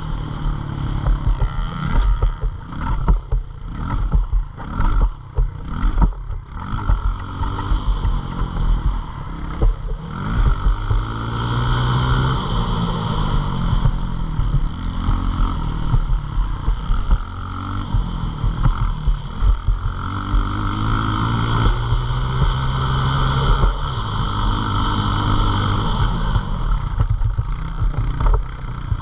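Pit bike engine revving up and down. In the first several seconds there are quick throttle blips with short dips between them, and after that longer, steadier pulls rise and fall.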